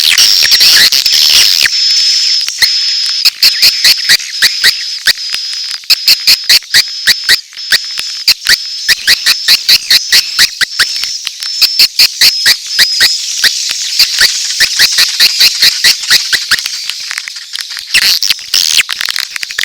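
Recorded edible-nest swiftlet calls used as a lure sound: a rapid train of sharp clicks, several a second, over a steady high-pitched chirping twitter.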